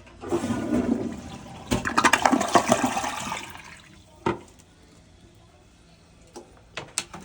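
Glacier Bay dual-flush toilet flushing. Water rushes in just after the start, surges louder and choppier for a couple of seconds, and dies away about four seconds in. A single sharp knock follows.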